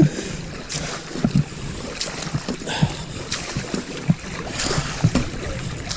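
Water sloshing and splashing against small paddled boats, with irregular low knocks and wind buffeting the microphone.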